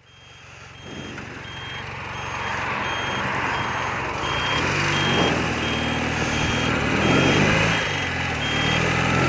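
Motorcycle engine idling, fading in, with a steady electronic beeping repeating about one and a half times a second over it.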